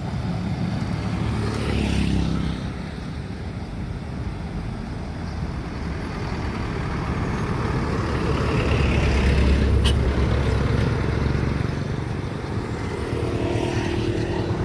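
Motor vehicles passing at a level crossing: a low engine rumble that swells twice, loudest about two-thirds of the way through, with a motorcycle engine coming in near the end.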